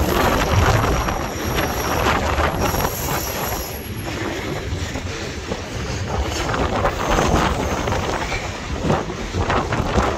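Norfolk Southern freight train's cars rolling past on steel wheels, with wind buffeting the microphone.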